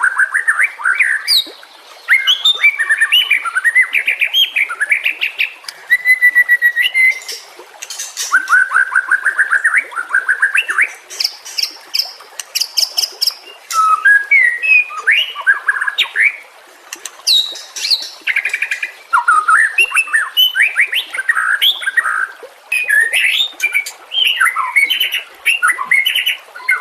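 White-rumped shama singing: a varied, loud song of quick phrases made of rapid trills, whistled notes and chattering, with short pauses between phrases.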